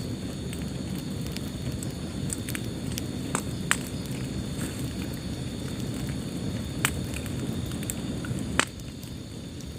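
Wood fire burning in a fireplace: a steady low rumble of flames with scattered sharp crackles and pops, a few louder snaps standing out, the loudest near the end.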